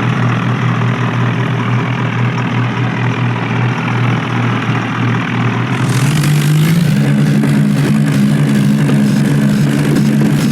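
Diesel tractor engines running hard under load in a tractor tug-of-war. The engine note is steady, then steps up to a higher pitch about six seconds in.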